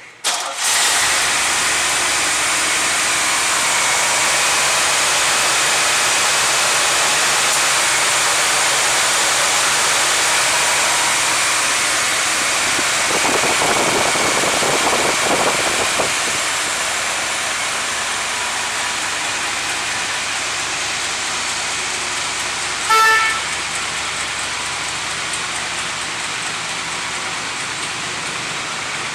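A Chevrolet LS3 V8 engine fires up just after the start and runs steadily, settling a little lower about two-thirds of the way through. A short car horn beep sounds once near the end.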